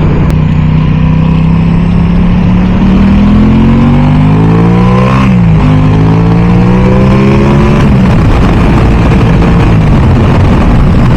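Aprilia Tuono 660's parallel-twin engine accelerating: its pitch climbs, drops with an upshift about five seconds in, climbs again, then falls as the throttle is eased about eight seconds in. Wind rushes over the microphone throughout.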